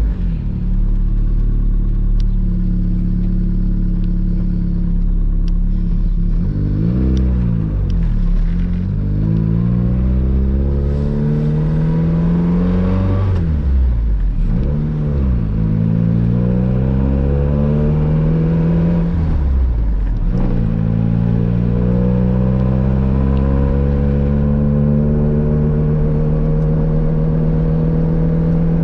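Turbocharged Honda Civic engine pulling through the gears. The revs climb steadily and drop sharply at each shift, with a few quick revs up and down in between, then settle into a steady, slowly rising note for the last third.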